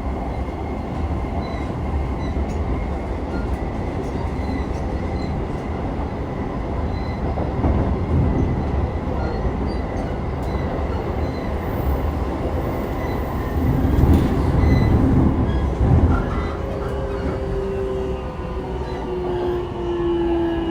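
Interior running sound of an E233-3000 series electric multiple unit: steady rumble of wheels on rail, louder for a stretch a little past halfway. From about three-quarters of the way in, the traction motors give a whine that slowly falls in pitch as the train brakes for its station stop.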